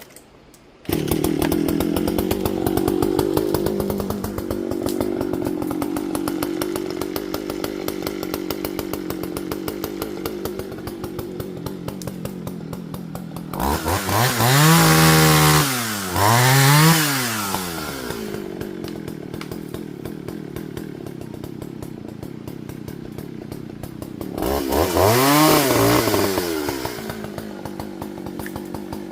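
Partner Farmer two-stroke chainsaw starting about a second in and idling, then revved twice in quick succession around the middle and once more near the end, the pitch rising and falling each time.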